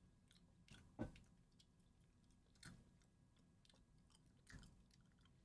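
Faint chewing of a grape gummy candy, with three soft mouth smacks: the loudest about a second in, then two more at about the middle and near the end.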